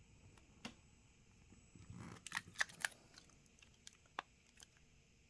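Faint handling clicks and light taps of a phone and small parts on a work surface, with a quick run of three or four sharper clicks about two seconds in.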